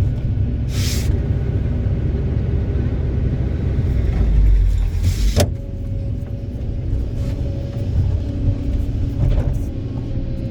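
Heavy diesel engine of an excavator at work, a continuous low rumble. A short hiss comes about a second in, and a single sharp knock about five seconds in.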